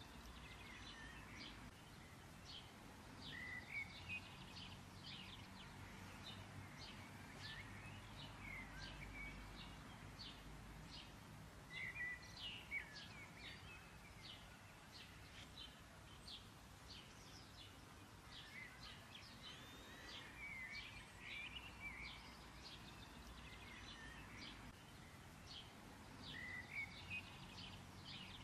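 Birds chirping faintly: many short, high chirps and a few twittering calls over a low, steady hiss.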